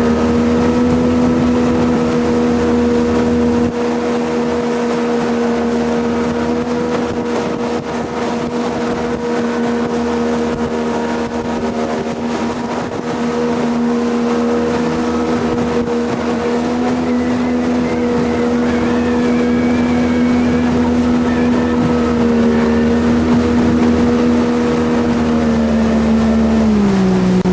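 Jet boat engine running steadily at cruising speed with the rush of the water jet. Its pitch falls just before the end as the throttle comes off.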